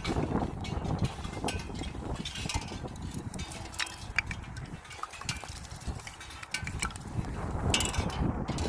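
Footsteps and handling noise of someone walking outdoors: irregular sharp clicks and scuffs over a steady low rumble.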